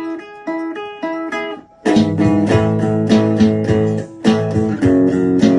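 Guitar music: sparse, repeating picked notes for the first couple of seconds. After a brief drop, a louder, fuller strummed part with low notes comes in and carries on.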